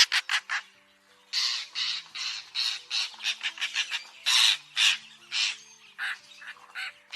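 Lilac-breasted roller giving a rapid series of harsh, rasping crow-like calls, a few a second, with a pause about a second in. Soft background music with held notes plays underneath.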